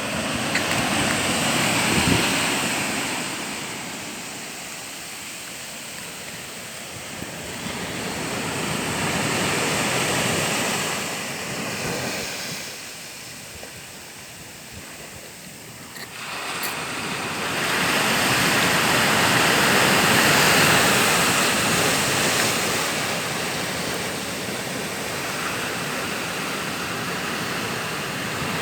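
Sea waves surging and breaking, the rush of water swelling and fading every several seconds, with some wind on the microphone.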